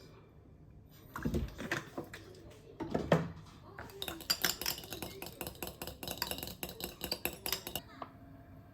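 Kitchenware clinking and clattering: utensils and dishes knocking together in quick, uneven clicks, with two heavier knocks early on the way in.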